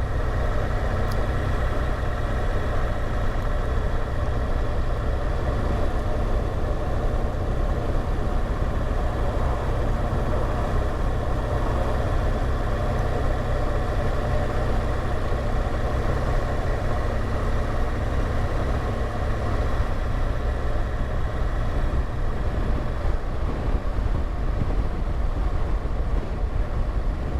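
BMW R1200GSA's flat-twin engine running steadily under way, with the rush of air and road noise of riding.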